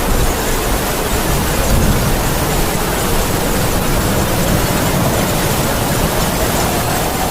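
Heavy rain with howling wind: a steady, dense hiss with a faint wavering wind whistle under it.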